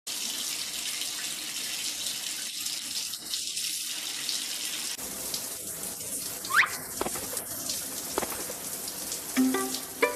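Steady hiss of running water, with a short rising squeak about six and a half seconds in. Bell-like mallet notes, like a glockenspiel, come in near the end.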